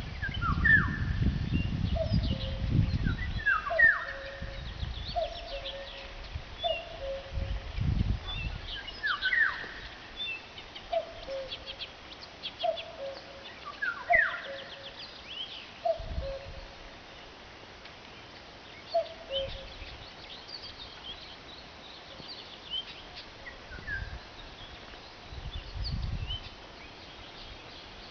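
Several songbirds singing and chirping, with repeated short notes and quick downward-sweeping calls. Low rumbling noise on the microphone is heavy in the first few seconds and returns briefly a few times.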